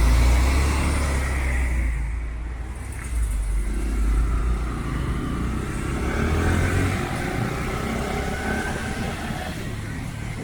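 Motorcycle engine running while riding through city traffic, picking up speed with a rising engine note from about four to seven seconds in.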